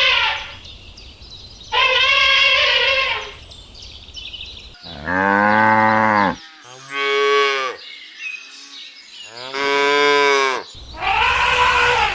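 Cattle mooing: a series of drawn-out calls about a second long each, some higher-pitched and some deep.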